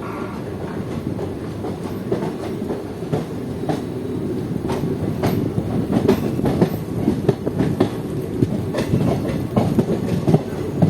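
Indian Railways express train running on the track, a steady rumble of the coaches with wheels clicking and knocking over rail joints, growing louder toward the end.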